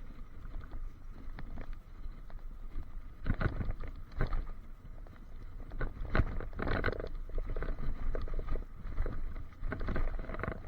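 Irregular rattling and knocking, picked up through the waterproof case of a handlebar-mounted action camera while riding, over a steady low wind and road rumble. The rattle's cause is unknown, even to the camera's owner.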